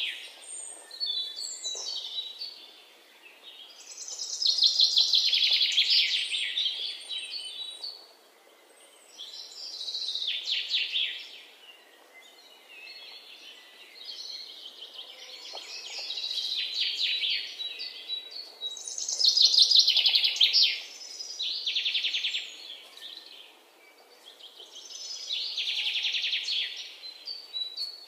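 A bird singing repeated high trilling phrases, each a second or two long, about every five seconds.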